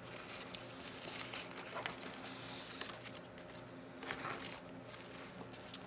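Sheets of craft paper being handled and shuffled through: quiet rustling with small taps and clicks, and a longer rustle about two and a half seconds in.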